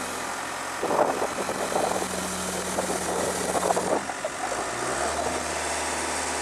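Caterpillar 272C skid steer's diesel engine running, with an irregular clatter over it from about one to four seconds in; about five seconds in the engine note drops lower as it slows.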